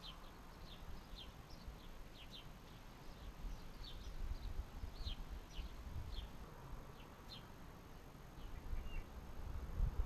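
A small garden bird chirping over and over: short falling chirps, about two a second, that stop about seven and a half seconds in, followed by a few fainter calls near the end.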